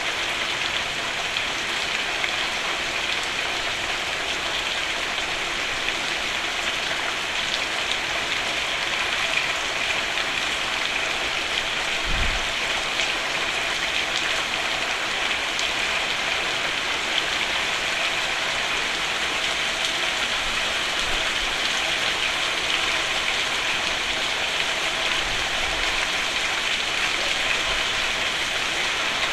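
Steady rain falling on a roof, an even, unbroken hiss. A brief low thump about twelve seconds in.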